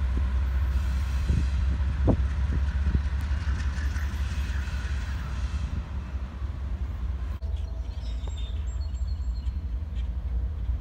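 Cars of a passing track geometry train rolling by close at hand: a steady low rumble with a few sharp clacks of wheels over rail joints in the first few seconds. About seven seconds in the sound cuts off abruptly to a quieter, more distant rumble.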